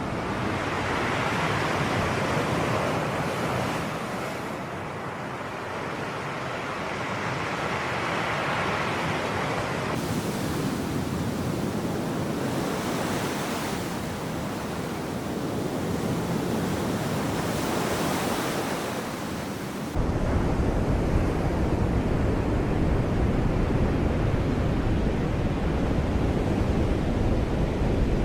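Sea waves washing on the shore, a steady surf noise that swells and falls away. It changes abruptly twice, about a third and two-thirds of the way through. In the last third a heavy low rumble of wind on the microphone joins it.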